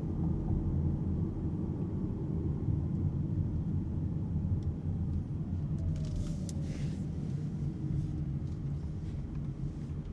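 Steady low vehicle rumble, with a faint whine that slowly falls in pitch over the middle of the stretch.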